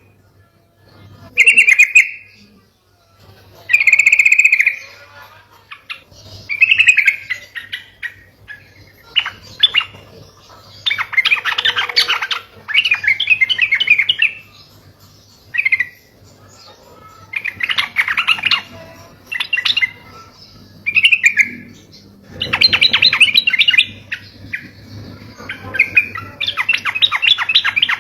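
Yellow-vented bulbul (trucuk) singing: short bursts of rapid, bubbly, chattering notes, repeated every second or two with brief pauses between them.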